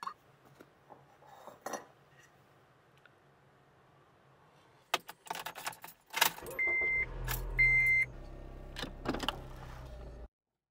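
Car keys jangling at the ignition, then a Honda Civic's engine starting and settling into a steady idle. Two short electronic beeps come about a second apart just after it starts, and the sound cuts off abruptly near the end.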